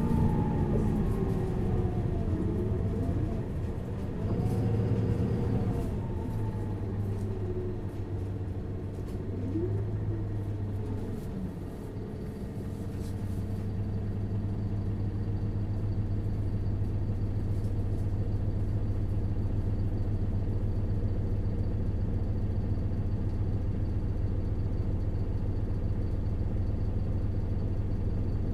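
Isuzu Erga LV290N1 city bus's four-cylinder diesel engine heard from inside the cabin, its note rising and falling as the bus pulls through its gears for about the first twelve seconds, then settling into a steady drone with a faint high whine.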